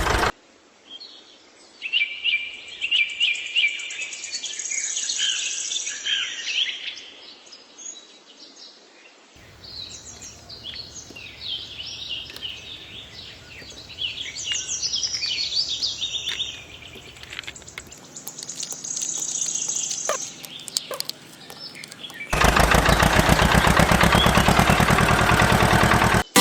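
Small birds chirping in quick runs of short, high notes, over faint background noise. About 22 seconds in, a loud, steady noise cuts in and runs for about four seconds.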